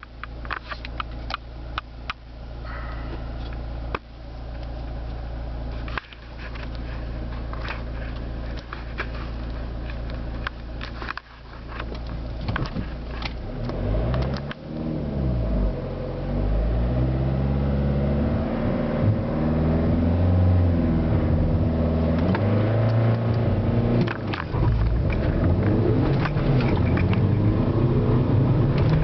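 Remapped 1.7 litre turbo diesel engine of a Corsa D heard from inside the cabin under hard acceleration, with road rumble. After a steadier stretch, from about twelve seconds in the revs climb and drop again and again as it is run up through the gears, getting louder toward the end.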